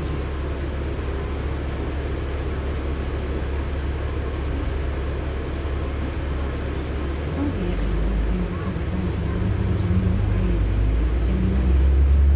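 LiAZ-6213.65 articulated diesel city bus heard from inside: a steady low engine hum that changes about seven seconds in and grows louder, as the bus picks up speed.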